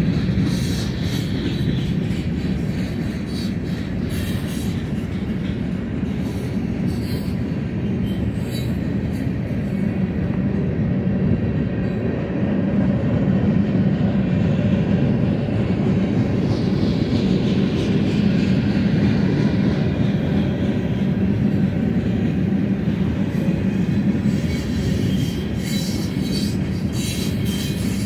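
Covered hopper cars of a freight train rolling past steadily: a continuous low rumble of steel wheels on rail, with thin high wheel squeals near the start and again near the end.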